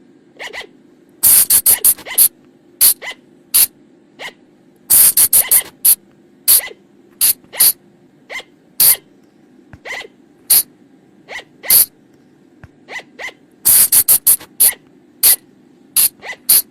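Flying lemur (colugo) calls: short, sharp, shrill cries, some single and some in quick runs of three to five, repeating at irregular intervals over a steady low hum.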